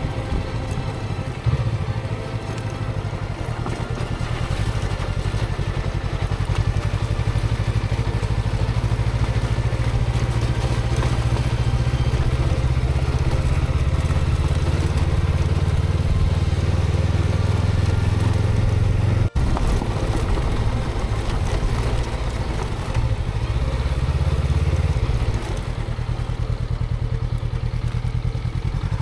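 Honda CB500X motorcycle's parallel-twin engine running steadily while riding, with wind and road noise over it. The sound cuts out for an instant about two-thirds through and eases slightly near the end.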